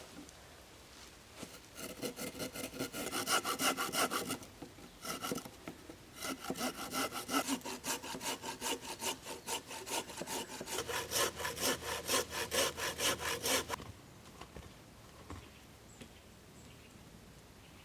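Hand saw cutting through a wooden stick with quick, even back-and-forth strokes, about three a second. It comes in two runs with a short break between them and stops a few seconds before the end.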